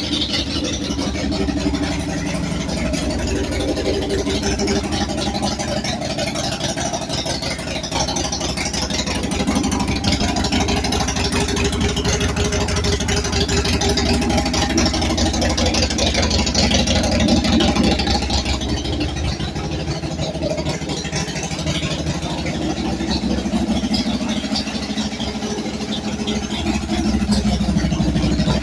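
A 2002 Orange County Choppers motorcycle's 124 cubic inch TP Engineering V-twin engine running just after a cold start, mostly idling. Engine speed and loudness rise a little three times, about a third of the way in, past the middle and near the end.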